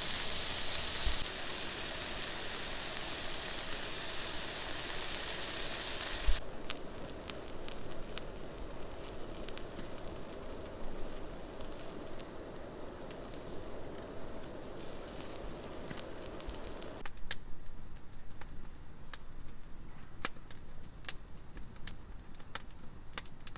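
Sizzling and crackling, as of food frying and a fire burning, in several abruptly changing stretches, with sharp pops more distinct in the later part.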